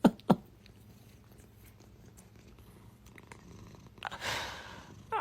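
A domestic cat purring softly and steadily. There are a few sharp clicks in the first half-second and a short rush of noise about four seconds in.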